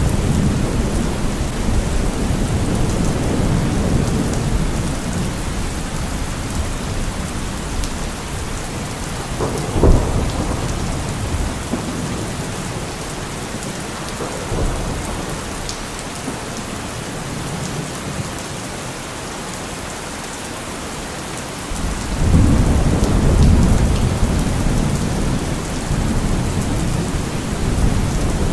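Thunderstorm: steady heavy rain with rolling thunder. A short sharp crack of thunder comes about ten seconds in, the low rumbling then dies down, and a fresh roll of thunder builds about two-thirds of the way through.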